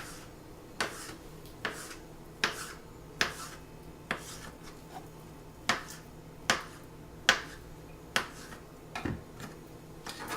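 Kitchen knife knocking on a cutting board while cutting avocado, one sharp knock about every second with a short pause halfway through.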